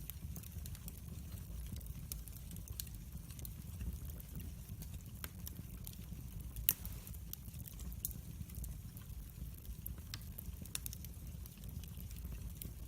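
Log fire in a fireplace crackling, with scattered small pops over a steady low rumble of the flames, and one louder snap about halfway through.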